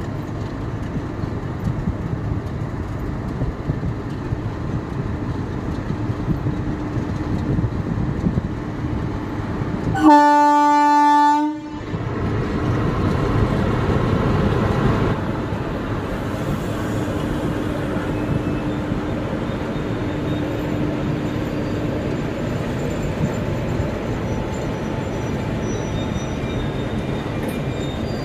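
A WAP-4 electric locomotive hauling an express train slowly out of a station, its wheels and running gear giving a steady rumble. The locomotive's horn sounds once, for about a second and a half, about ten seconds in.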